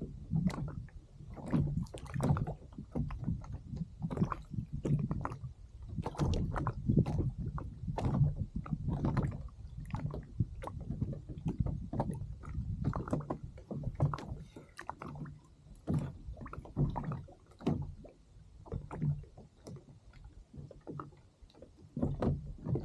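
Small waves slapping and sloshing against the hull of a drifting kayak. There is a steady, irregular run of low knocks, several a second.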